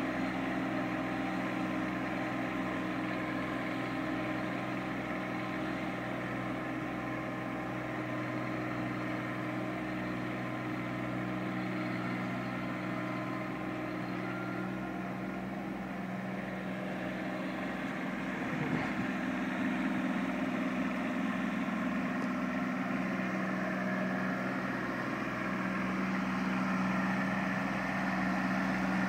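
Kubota B2320 compact tractor's three-cylinder diesel engine running steadily, with a brief wobble in pitch about two-thirds through and a little louder afterwards.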